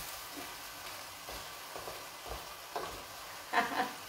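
Ossobuco pieces and soffritto sizzling in a stainless steel pot on a gas burner as the wine reduces, stirred by hand with a spoon, with a few soft knocks of the spoon against the pot, the loudest near the end.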